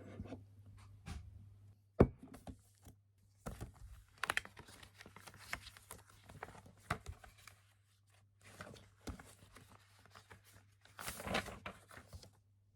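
Rustling and crinkling of paper being handled, in short scattered bursts, with a sharp tap about two seconds in and a longer rustle near the end.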